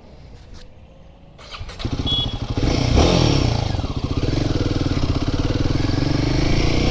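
Royal Enfield Himalayan 450's single-cylinder engine being started: a few clicks, then the engine catches about two seconds in, rises briefly to a peak about a second later, and settles into a steady idle through the exhaust.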